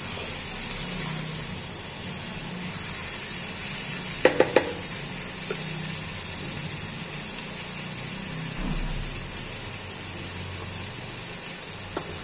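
Chicken pieces frying in spiced masala in a nonstick kadhai, a steady sizzle as they are stirred. Three quick clacks of the spatula against the pan about four seconds in, and one more near the end.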